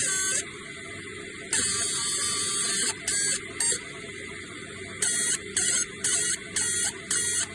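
Fiber laser engraving machine marking a metal pigeon ring: high-pitched buzzing that starts and stops as the beam scans each stroke, one longer pass about a second and a half in, then short bursts about twice a second, over the machine's steady low hum.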